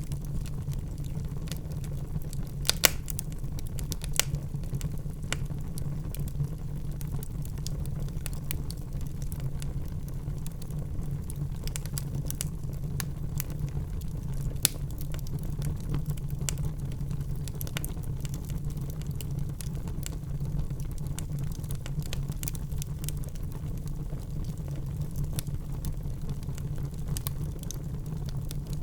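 Logs burning in a fireplace: a steady low rumble of flames with scattered crackles and pops. The sharpest pops come about three and four seconds in and again near the middle.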